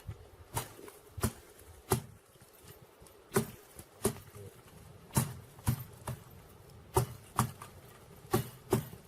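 Dry firewood being struck hard, about a dozen sharp chopping knocks, often in quick pairs, as a stubborn piece of deadwood is broken up for a bonfire.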